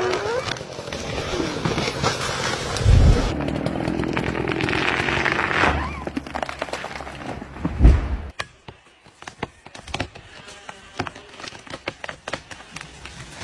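Chainsaw running and cutting wood for the first several seconds, with a heavy thud partway through. About eight seconds in comes another heavy thud, after which the saw is no longer heard and scattered sharp cracks and snaps follow.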